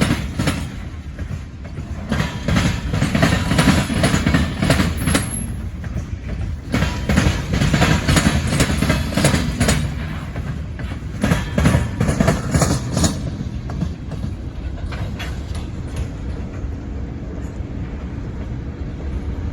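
Short CN freight train rolling past, its wheels clattering in quick rhythmic clicks over the rail joints above a low rumble. The clatter thins out about 13 seconds in, leaving a quieter steady rumble.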